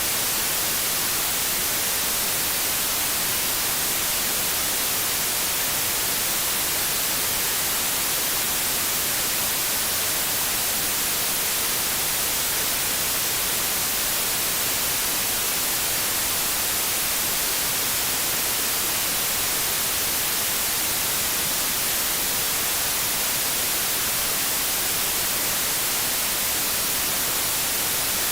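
Steady hiss of TV static, as from an untuned analogue television set, even and unchanging and strongest in the treble.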